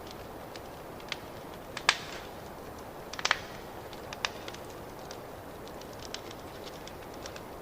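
Fireplace fire crackling: irregular sharp pops and snaps over a steady hiss, the loudest snap a little under 2 seconds in and a quick cluster of pops around the 3-second mark.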